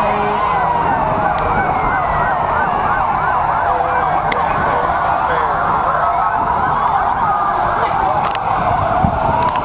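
Several emergency-vehicle sirens sounding at once, overlapping wails and quick yelps rising and falling in pitch out of step with each other.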